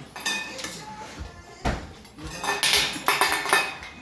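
Cockatoo banging and rattling a metal object such as a bowl or toy: irregular clanks with a ringing tone, busiest in the second half.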